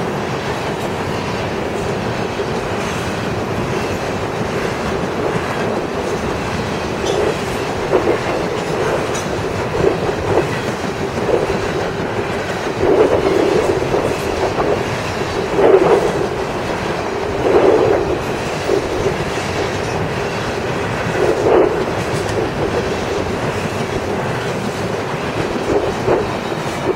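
CSX freight train cars rolling past, a steady rumble of steel wheels on the rails. Several louder swells come over it in the second half, a few seconds apart.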